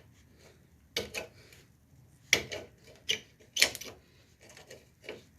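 Metal tools clinking and tapping against rusty rear brake hardware: a series of irregular sharp metallic knocks, several close together about three and a half seconds in.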